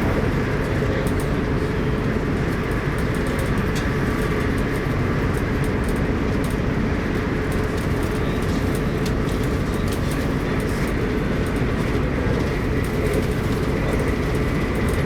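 Arlanda Express electric train running at speed: a steady rumble with a constant hum.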